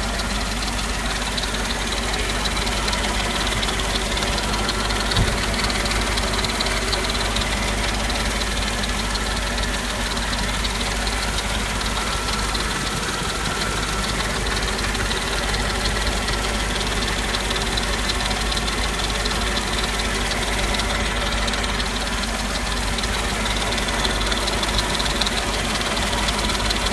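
Naturally aspirated V8 of a Mercedes-Benz G55 AMG idling steadily with an odd tick from the engine bay, with one brief louder knock about five seconds in. The tick persists with the serpentine belt off, which the owner takes to rule out the water pump.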